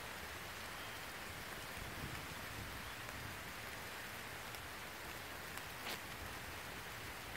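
Steady rain falling, with one short sharp tick about six seconds in.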